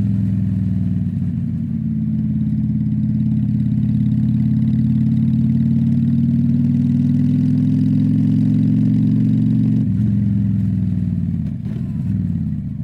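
Honda Shadow V-twin motorcycle engine running on the move. Its note climbs slowly for several seconds, falls sharply about ten seconds in, then wavers and gets quieter near the end.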